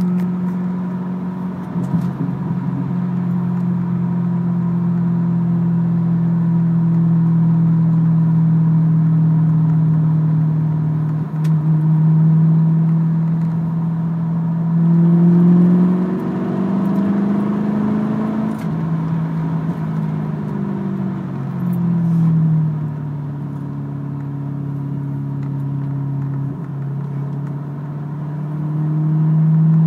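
2004 Pontiac GTO's 5.7-litre LS1 V8 running through an X-pipe and Spintech mufflers while driving, heard from inside the cabin. It is a steady low drone that rises in pitch as the car speeds up about halfway through, then eases back down and climbs slightly again near the end.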